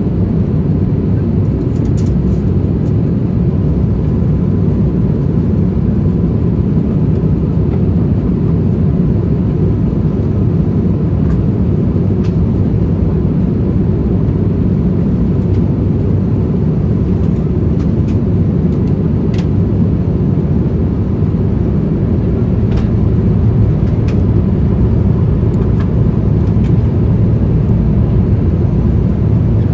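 Airbus A350-1000 cabin noise in flight: a steady, loud, low rumble of engines and airflow that does not change, with a few faint ticks.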